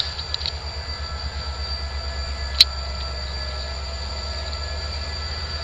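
Low steady rumble of a train out of sight, with a fast even pulsing in the rumble and a faint steady high-pitched whine over it. A single sharp click comes about two and a half seconds in.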